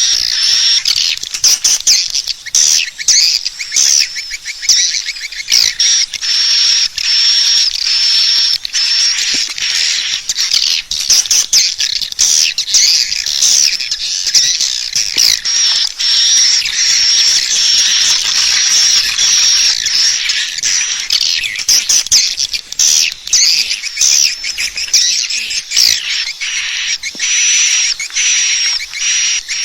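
Edible-nest swiftlet lure call: dense, unbroken high chittering and twittering peppered with rapid sharp clicks. This is the kind of call sound played from swiftlet houses to draw swiftlets in to roost.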